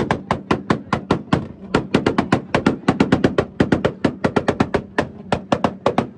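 Rapid string of sharp exhaust pops, about seven a second, lasting several seconds and stopping abruptly, typical of a car or truck held on a two-step launch limiter.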